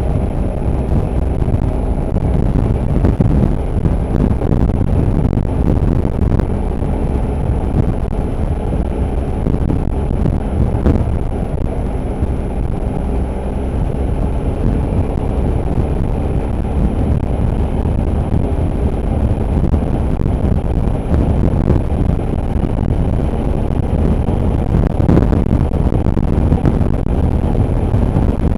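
Motorcycle engine running at a steady cruising pace, mixed with wind rush on the microphone: a constant low rumble that barely changes.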